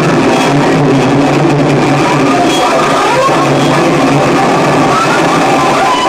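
Harsh noise music: a loud, dense wall of distorted noise over a steady low drone, with short high whistling tones flickering through it.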